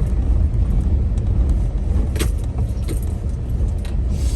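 Toyota Sequoia driving over rough dirt: a steady low rumble with a few sharp clicks and rattles, about two seconds in and again near the end.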